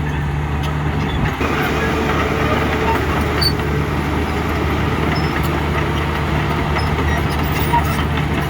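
Diesel engines of heavy earthmoving machinery running steadily: a low, even engine drone under a broad mechanical rumble.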